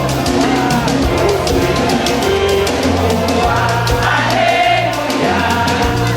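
Church choir singing a gospel song, with instrumental accompaniment and drums keeping a steady beat.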